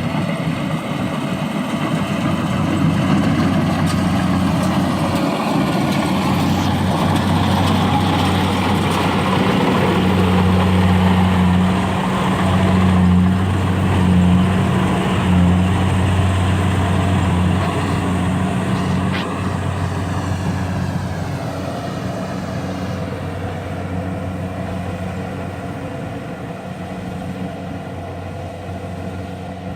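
A heavy engine running steadily with a deep hum, growing louder through the middle and then slowly fading.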